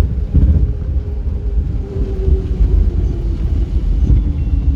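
A vehicle driving at speed: a steady low rumble with a faint hum that slides slightly lower partway through.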